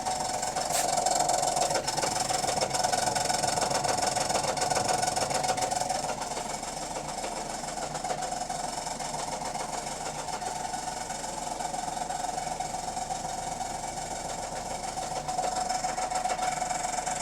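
Bus running, heard from on board, with a steady whine from its Voith automatic gearbox. The whine is louder for the first few seconds, drops back through the middle and swells again near the end.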